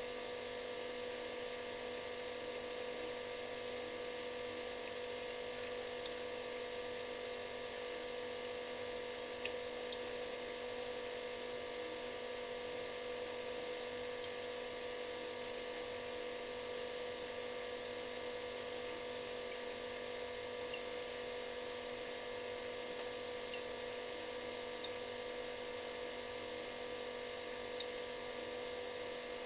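Refrigerator running with a steady electric buzzing hum, one strong pitch with several fainter fixed tones over a soft hiss, unchanging throughout.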